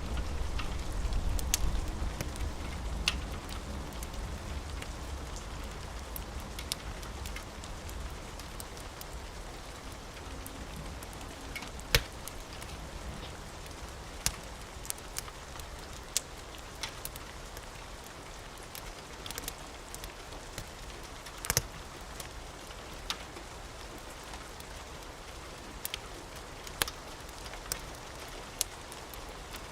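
Steady rain with a wood fire crackling, sharp pops scattered irregularly throughout. A low rumble of thunder fades away in the first couple of seconds.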